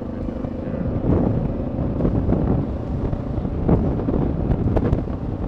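Wind buffeting the microphone while riding, over the low running of a Honda XR650L's single-cylinder engine.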